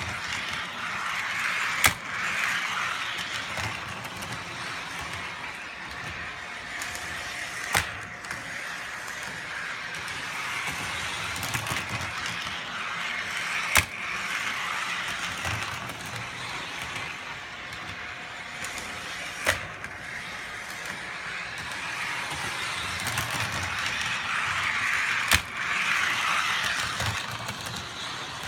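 Toy trolley motor and wheels whirring steadily along plastic O-gauge RealTrax track, swelling and fading as it travels. A sharp knock comes about every six seconds, five times in all, as the bump-and-go trolley strikes a bumper or a light car and reverses direction.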